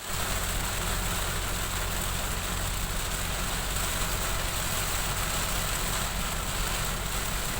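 Heavy rain while a car drives: a steady rush of rain and road noise with a low, even engine hum underneath.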